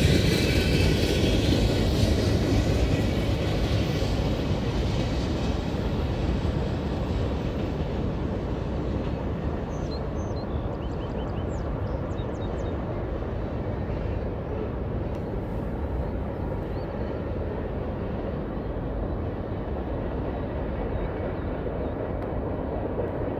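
Freight train's last cars rolling past on the rails, the rumble fading over the first several seconds as the train moves away, leaving a steady low rumble.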